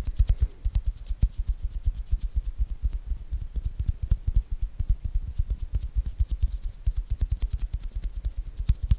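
Hands making ASMR hand sounds close to a microphone: a fast, uneven run of soft thumps, several a second, with light crackling and skin-on-skin clicks.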